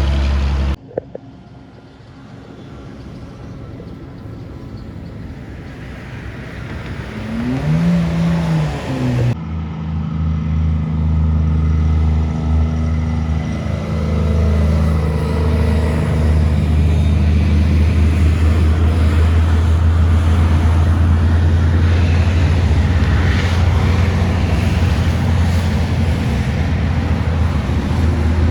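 Heavy trucks' diesel engines passing on a highway hill. Traffic noise builds after a cut about a second in, with an engine note rising and falling around eight seconds. After another cut, a deep steady engine drone grows louder as a truck approaches.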